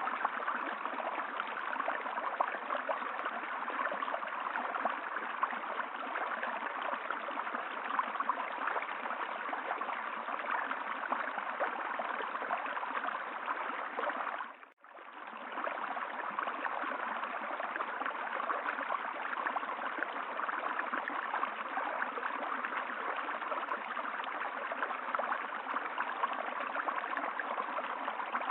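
Steady rushing of flowing stream water, fading out briefly about halfway through and coming straight back in.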